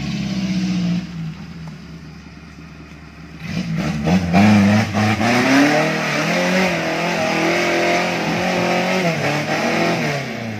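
A small off-road 4x4's engine revs hard as it climbs a muddy rut. There is a short burst near the start, then from about three and a half seconds in the revs rise and fall repeatedly under load.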